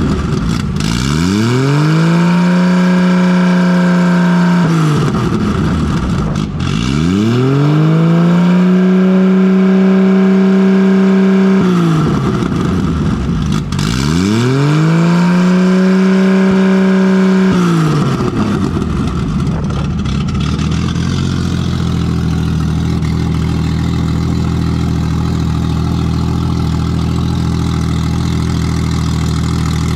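Nissan RB20 inline-six engine, running without a proper exhaust and very loud. It is revved three times, each time rising quickly and holding steady revs for several seconds before dropping back. Then it settles to a steady idle. It runs on all six cylinders again now that the faulty lifter holding cylinder 5's intake valve open has been fixed.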